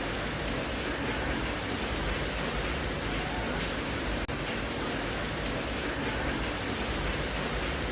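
Steady, even hiss of heavy rain, with a brief dropout about four seconds in.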